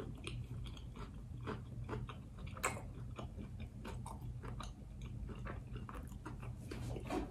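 Close-up chewing of a bite of fried chicken pot pie egg roll: a run of small crunches and wet mouth clicks, with one sharper crunch about two and a half seconds in, over a faint steady low hum.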